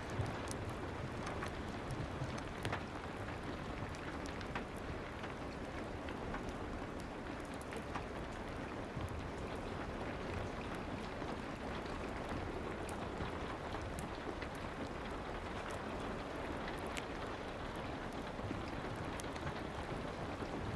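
Steady soft rain with scattered sharp crackles of a fireplace fire.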